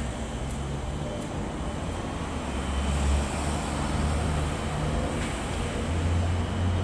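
Low, steady rumble of vehicles, swelling slightly about halfway through.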